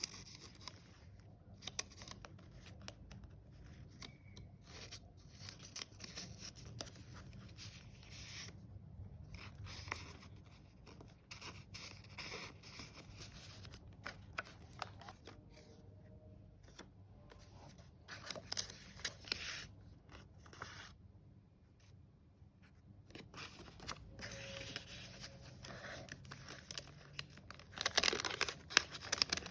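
Pages of a handmade paper junk journal being turned and handled, with irregular rustling and crinkling of paper that is loudest near the end.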